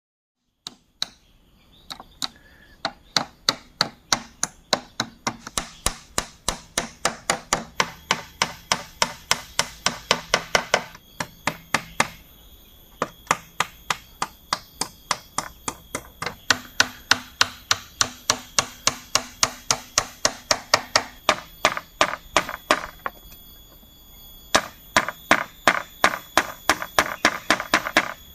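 Rapid, even chopping strikes on bamboo, about three a second, in three runs with short pauses between them.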